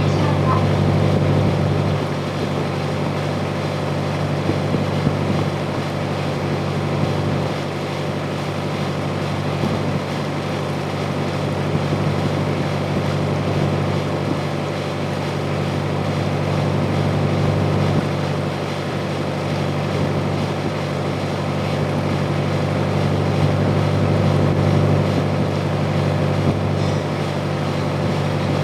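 A sightseeing boat's engine running steadily at cruise, heard from on board as a constant low drone.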